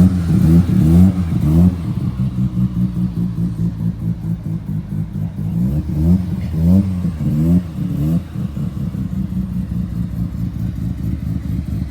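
Mazda RX-7's rotary engine revved in quick blips, a run of them at the start and another about six to eight seconds in, with a steady, rapidly pulsing idle in between and after.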